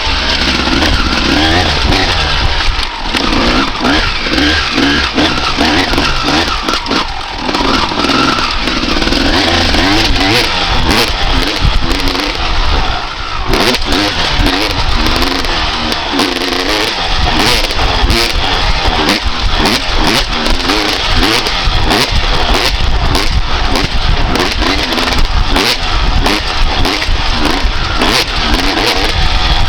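A 1995 Honda CR250R's 250 cc single-cylinder two-stroke engine revving hard under riding. Its pitch climbs and drops over and over as the throttle opens and closes through the gears.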